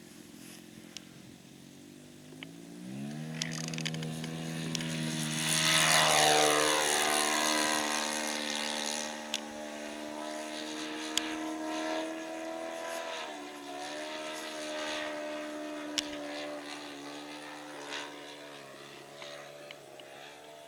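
RC airplane's motor and propeller throttling up for takeoff about three seconds in. It makes a loud pass around six seconds in, its pitch falling as it goes by, then runs as a steady drone while the plane flies, with a brief dip in pitch near the middle.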